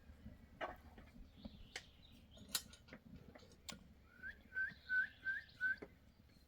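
A run of five short, clear whistled notes in quick succession, about three a second, each ending in an upward flick, among scattered light clicks and knocks.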